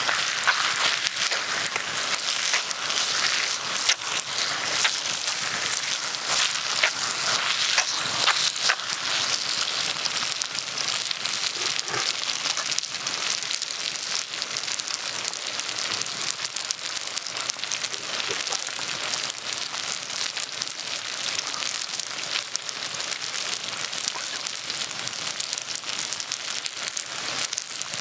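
Campfire crackling with many small pops over the steady rushing hiss of a mountain stream, a little louder in the first half.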